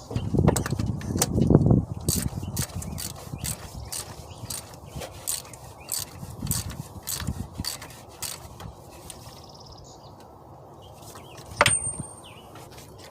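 Hand socket ratchet clicking in short irregular runs, loudest in the first couple of seconds, with one sharper click near the end.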